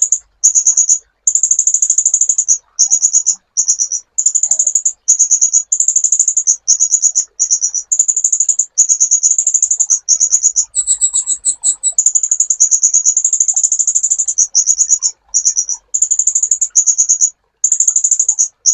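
Kolibri ninja sunbird singing a fast, very high-pitched trilling chatter in runs of about a second, separated by brief pauses, kept up without letting off.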